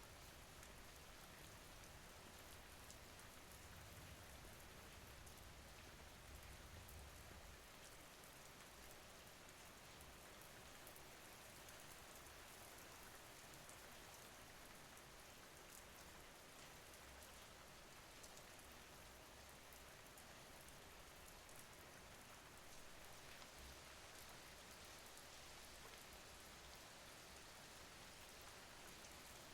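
Faint, steady rain: an even hiss with a fine patter of drops.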